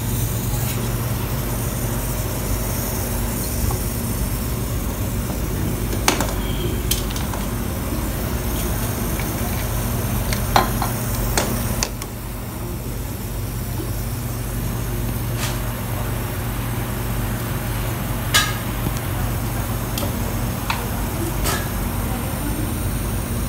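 Refrigerator running after a compressor replacement: a steady low electrical hum from the compressor and fan, with a scattering of sharp clicks and light metal taps. The hum drops a little in level about halfway through.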